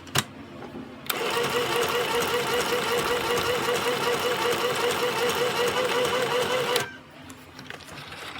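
Sew Simple K1127 domestic sewing machine sewing its stitch 12 on the low speed setting: a sharp click, then the machine runs steadily for about six seconds with an even stitching beat of roughly five a second, and stops suddenly.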